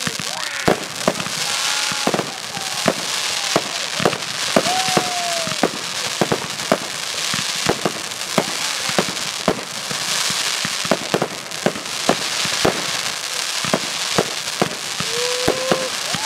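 Fireworks display: a steady run of sharp bangs from bursting shells, roughly one or two a second, over a continuous high hiss and crackle from rising comets and sparkling stars.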